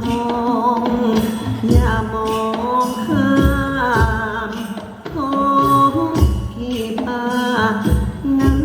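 Live Thai luk thung band music between sung lines: a pitched melody over low drum beats that recur about once a second.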